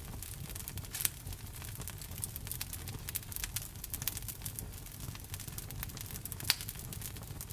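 Wood fire burning in a fireplace: a steady low rumble of flame with irregular sharp crackles and pops from the logs, the loudest pop about six and a half seconds in.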